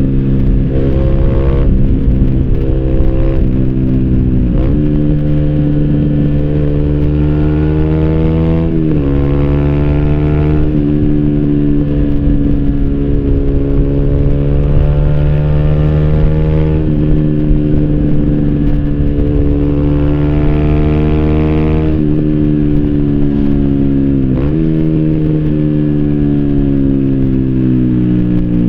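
Yamaha YZF-R125's single-cylinder four-stroke engine, breathing through an Arrow racing header and Thunder slip-on silencer with dB-killer, running under way on the road. Its pitch climbs and falls with the throttle, with sharp breaks at gear changes about 5, 9 and 25 seconds in.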